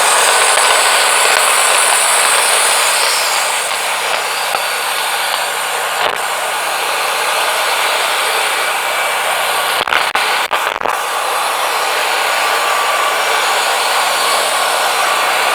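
Wood-Mizer LT40 portable bandsaw mill cutting through a pine log, with its engine running under a steady hiss of the blade in the wood and a couple of brief dips about ten seconds in.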